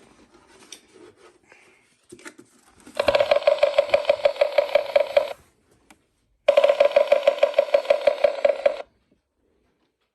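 Bird clock's small speaker playing the recorded yellow-bellied sapsucker sound: two bursts of rapid, evenly spaced pulses of about two seconds each, a second apart, starting about three seconds in, with a third beginning at the very end. Faint handling rustle before the first burst.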